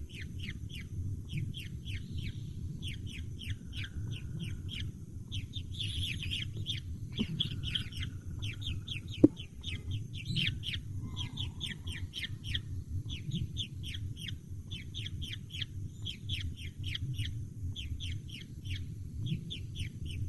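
Young birds peeping in a rapid series of short, high, downward-sliding calls, several a second, with one sharp click about nine seconds in over a steady low rumble.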